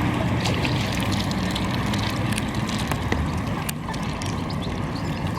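Steady outdoor background noise with a low rumble and faint scattered ticks.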